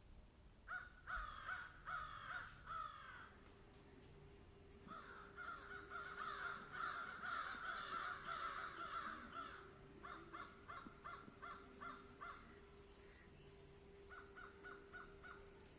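Birds calling in bouts of short, repeated calls: a few calls near the start, a longer dense stretch of overlapping calls in the middle, then quick series of short calls near the end. A faint steady hum runs beneath.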